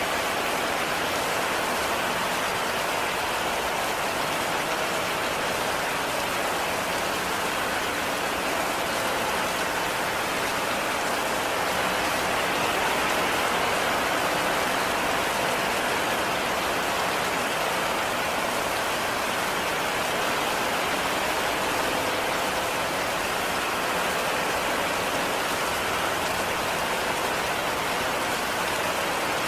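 Heavy rain falling steadily, an even hiss of rain on surfaces with no pauses or single loud strikes.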